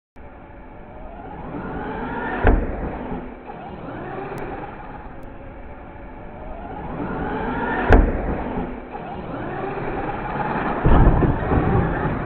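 Arrma Notorious RC monster truck on a 4S lipo, its electric motor whining and rising in pitch as it accelerates. Sharp impacts sound about two and a half seconds in and again near eight seconds as the truck strikes the pavement bump or lands, with a cluster of knocks near the end.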